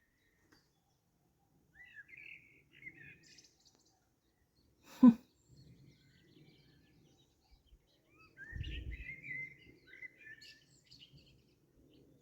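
Small birds chirping in short bursts, twice. A single sharp click about five seconds in is the loudest sound, and a brief low rumble comes near the second burst of chirps.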